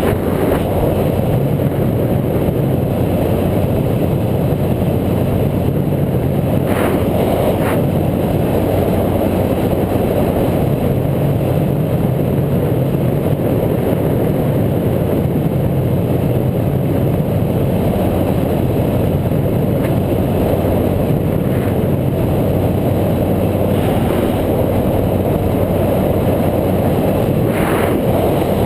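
Steady rumble and wind rush of riding, picked up by a bike-mounted action camera, with a few faint clicks.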